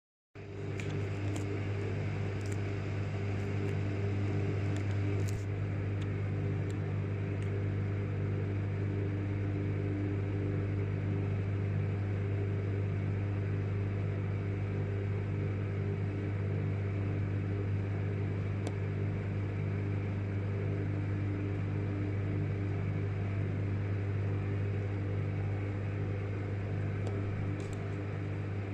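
Microwave oven running while heating salt: a steady, even electrical hum, with a few faint ticks in the first five seconds and a couple more later on.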